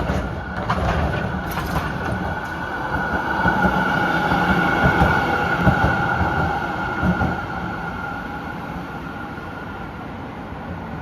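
A vehicle passing by with a steady high whine, growing louder to a peak about halfway through, then fading away.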